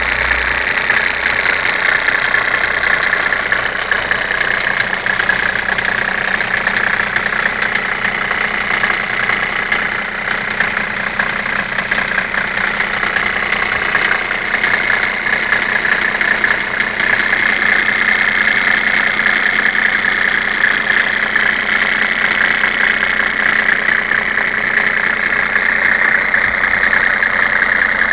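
Mercedes-Benz W140 300 turbodiesel's straight-six diesel idling steadily with diesel clatter, running cold after a start at −10 °C.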